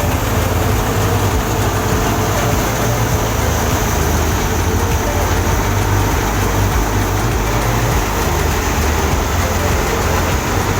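Heavy engine of harvesting machinery running steadily under load, a constant loud mechanical rumble with dense noise over it.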